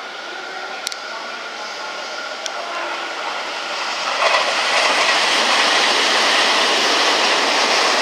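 A Tobu 200 series "Ryomo" limited express electric train approaching and passing close by at speed. It is moderate at first, with two sharp clicks, then about four seconds in the noise of wheels on rail rises suddenly and stays loud as the cars go by.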